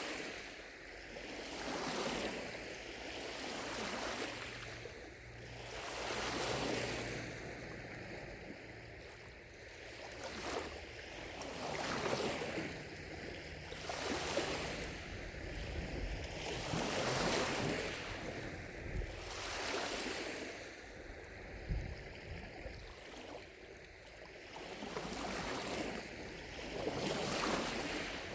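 Small lake waves lapping against the shore, soft washes of water coming every second or two.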